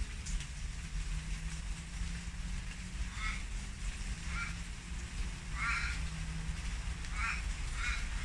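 Rain falling over a steady low hum, with a bird giving five short calls spread over the second half.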